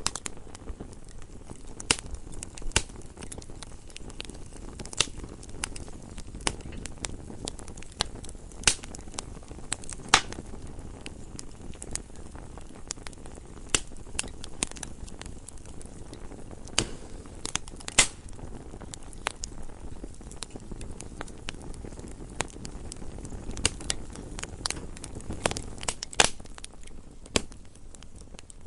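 Wood fire burning in a fireplace: a steady low rush of flames under irregular sharp crackles and pops of burning logs, a few pops much louder than the rest.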